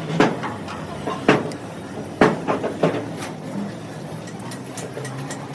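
Three sharp knocks about a second apart, then a fainter fourth, over a low steady hum.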